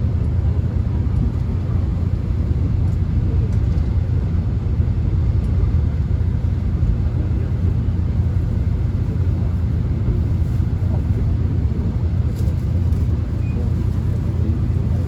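Subway train running, heard from inside the carriage: a steady low rumble of the train in motion, unbroken throughout.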